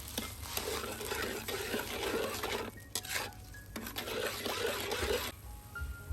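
A utensil stirring and scraping food around in a cooking pan, in uneven scraping strokes with a short break about three seconds in; the stirring stops about five seconds in.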